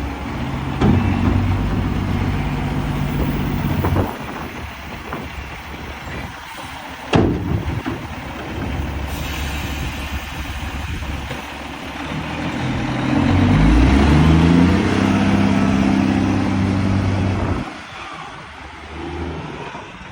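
Kenworth dump truck's diesel engine running, with a sharp knock about seven seconds in. About thirteen seconds in the engine note rises and grows louder as it revs or pulls away, then falls off about eighteen seconds in.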